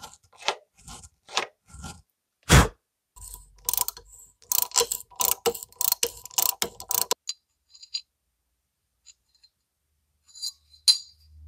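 Hand-tool work on metal parts: a series of short strokes, one sharp knock, then a run of rapid ratchet-like clicks for about three seconds. Near the end come a few light metal clinks.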